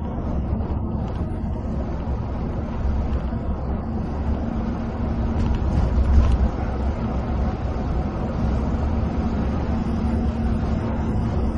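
Steady low drone of a coach's engine and the rumble of its tyres on the road at cruising speed, heard from inside the cabin, with a brief slight swell about six seconds in.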